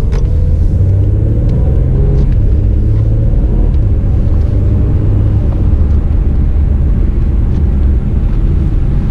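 2017 Acura NSX's twin-turbo V6 running at light load in quiet mode while driving slowly: a steady low rumble with a wavering engine note and road noise.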